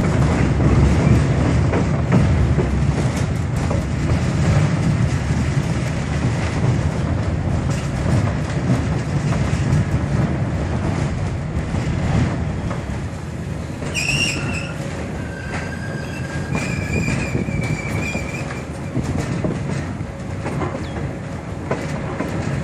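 Railroad passenger car rolling along the track, heard from inside the car: a steady rumble and clatter of wheels on rails. About two-thirds of the way through, the wheels squeal high and thin a few times for a few seconds.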